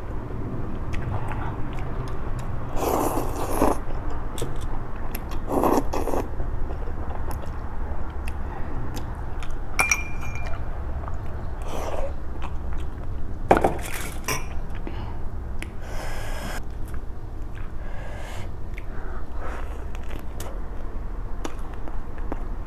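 Close-miked chewing and biting of food, with short clicks and clinks of a utensil against dishes scattered throughout and a few louder bites or mouth noises. A steady low hum sits underneath.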